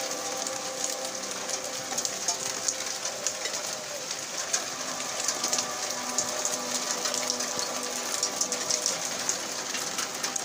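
Rain mixed with small hail falling, a steady hiss full of rapid ticks of drops and hailstones striking the ground and roofs. A few steady background tones hum beneath it, fading in the middle.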